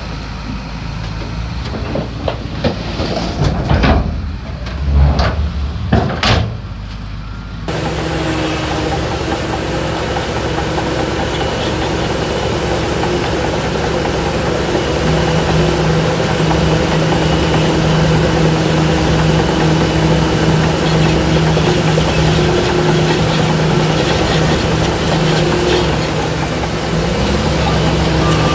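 Heavy diesel earth-moving machinery running, with several loud knocks and bangs in the first few seconds. After an abrupt change, a steady engine drone continues.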